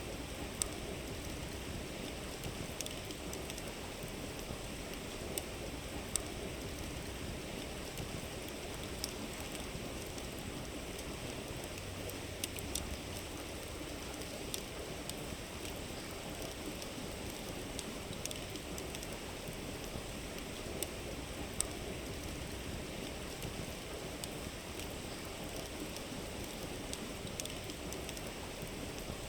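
River water rushing steadily, with a campfire crackling over it: sharp wood pops come at irregular moments every few seconds.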